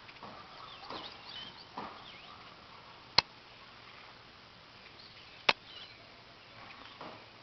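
Two sharp knocks about two seconds apart, the loudest sounds here, over faint short bird chirps and calls from a bluebird nest.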